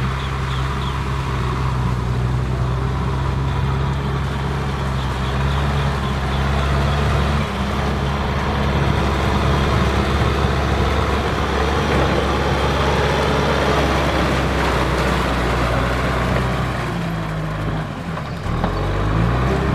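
Kubota M6040SU tractor's four-cylinder diesel engine working hard in mud. A steady note turns rougher and noisier about seven seconds in, and the engine speed rises near the end.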